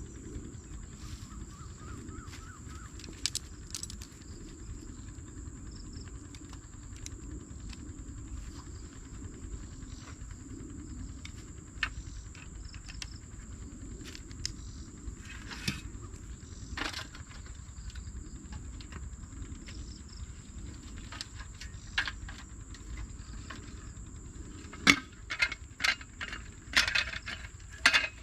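Steady high insect drone, like crickets, over a low background rumble, with scattered light clicks and clinks that bunch into a quick run of clattering near the end.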